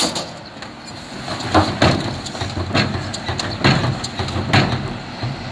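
Bin lorry running, with a series of loud knocks and clatters about once a second, typical of wheelie bins being lifted and banged empty into the truck.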